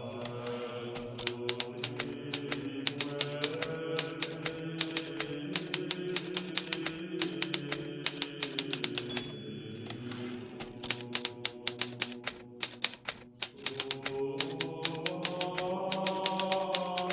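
Hermes Baby portable typewriter being typed on steadily, a fast run of key strikes, over soft sustained background music. About nine seconds in, a short high ring, typical of the margin bell, comes just before a brief pause in the typing.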